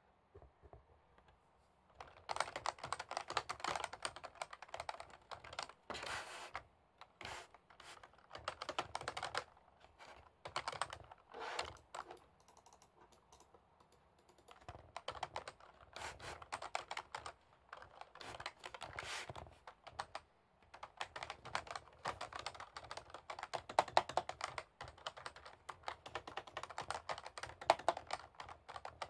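Typing on a computer keyboard: runs of rapid keystrokes starting about two seconds in, broken by short pauses.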